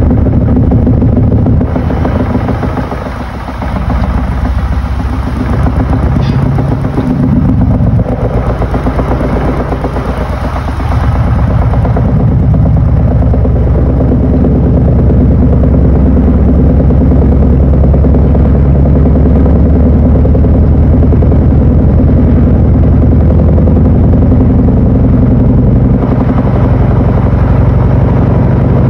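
Panasonic NA-FA80H8 washing machine running, a loud, steady mechanical hum with a low drone. It wavers and dips over the first dozen seconds, then settles into an even run.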